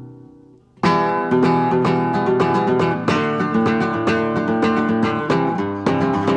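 Background music on acoustic guitar: a chord rings out and fades, then picked notes start up again just under a second in and run on at a steady pace.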